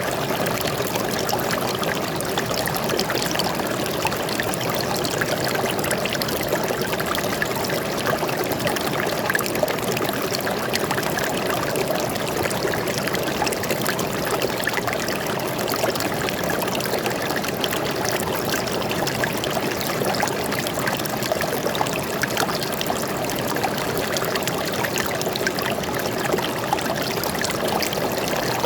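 Forest stream flowing steadily, a constant splashing and trickling of water over rocks.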